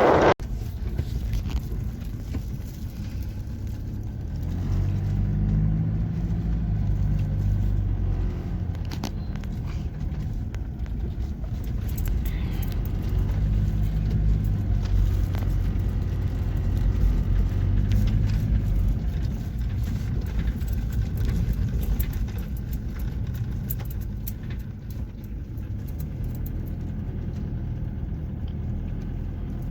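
A motor vehicle running, with a low engine rumble whose note shifts now and then and scattered light rattles.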